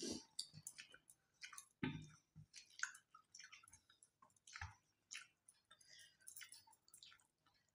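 Faint chewing and mouth clicks from people eating rice and curry with their fingers, with scattered soft clicks and a few dull taps.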